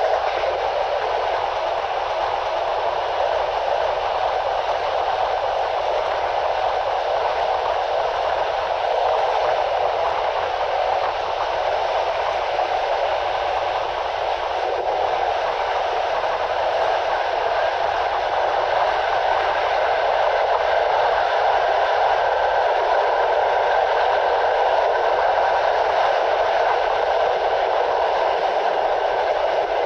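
Steady running noise of a passenger train at speed, heard from an open coach window: wheels on rails and rushing air. Wind-reduction processing has evened it out.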